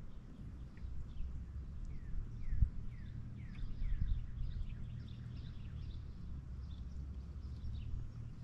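A songbird calling in a quick series of short, falling chirps, over a steady low rumble. Two low thumps come about two and a half and four seconds in, the first the loudest sound.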